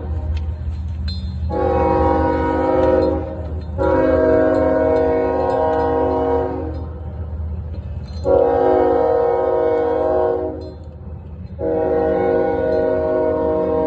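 Train horn sounding four long blasts of two to three seconds each, over a steady low rumble.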